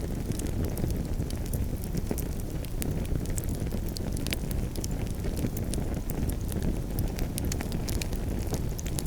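Campfire crackling: frequent sharp pops and snaps over a steady low rumble of the burning fire.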